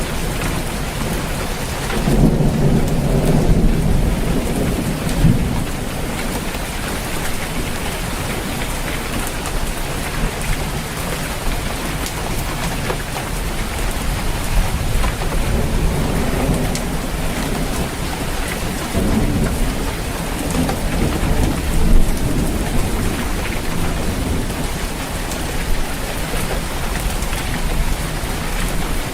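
Steady rain falling on a roof, with rolling thunder rumbling low about two seconds in and again, more faintly, around two-thirds of the way through.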